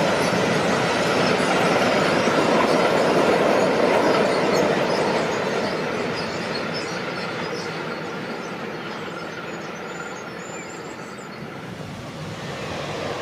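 A train passing on the line, its wheels running over the rails. The noise is loud for the first few seconds, then fades steadily as the train moves away, and it starts to build again near the end.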